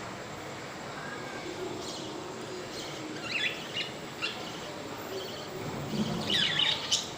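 Budgerigars chirping in short, high bursts, with a denser, louder run of chirps near the end.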